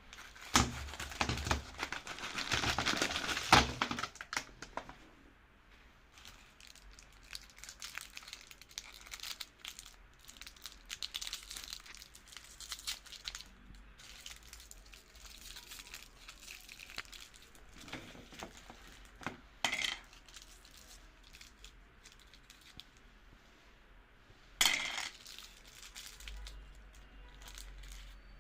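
Colourful candies being crushed in a meat grinder: a loud run of crackling and crunching in the first few seconds, then quieter crackles with a few sharp clinks of hard pieces.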